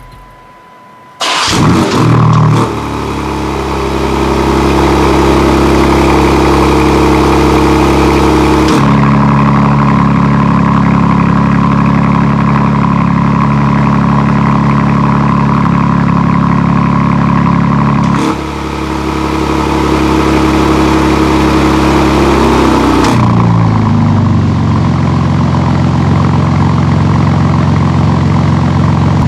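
BMW M4 G82 Competition's twin-turbo straight-six starting about a second in, through an Akrapovic titanium slip-on exhaust, with a brief flare. It then runs at a steady high idle, stepping between engine speeds a couple of times and settling lower after a short downward glide near the end.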